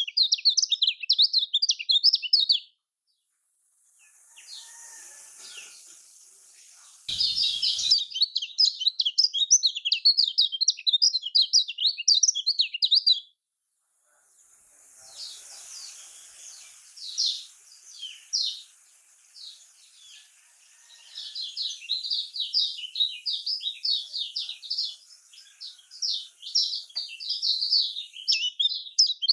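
Kecial kuning (a white-eye) singing a fast, high chattering song in dense bursts. The song breaks off about three seconds in and again near the middle, then returns as sparser single notes before building back to rapid twittering near the end.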